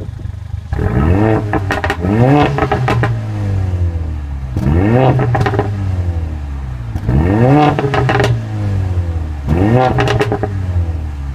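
Mercedes-Benz CLA45 AMG's turbocharged 2.0-litre four-cylinder engine and exhaust being free-revved, about five sharp blips of the throttle, each climbing quickly and then falling back to idle.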